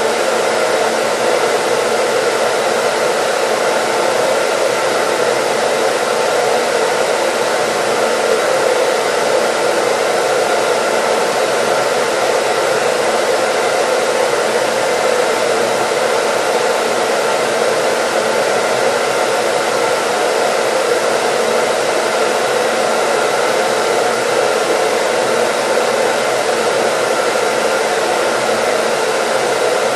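Hair dryer running continuously, a steady even rush of air with faint constant whining tones from its motor and fan.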